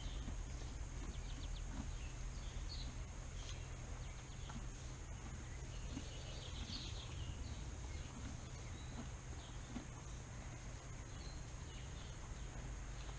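Outdoor ambience of scattered short bird chirps, with a brief chirping trill about seven seconds in, over a steady low rumble and a steady high hiss.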